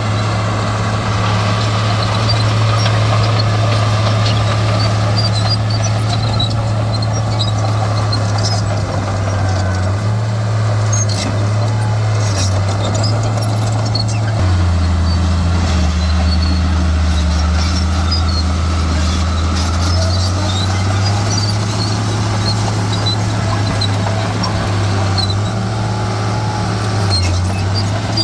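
Heavy diesel earthmoving machine engine running steadily, its pitch dropping for several seconds about halfway through, then rising again. Scattered short high squeaks sound over it.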